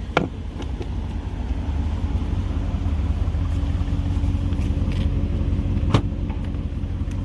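Audi SQ7's 4.0-litre twin-turbo V8 idling with a steady low exhaust rumble. A sharp click comes just after the start and another about six seconds in.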